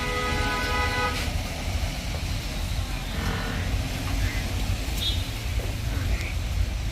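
A vehicle horn sounds once for about a second at the start, over a steady low rumble that runs throughout.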